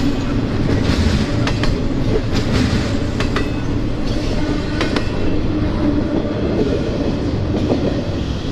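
Freight train cars rolling past, with a steady rumble and wheels clicking over the rail joints.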